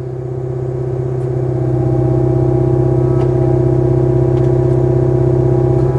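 Kubota KX057-4 excavator's diesel engine running steadily, getting louder over the first couple of seconds and then holding as it loads up driving the hydraulic log splitter through a big red oak round.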